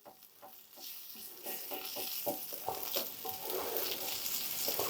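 Bacon sizzling and crackling in a frying pan, starting faint and growing louder about a second in.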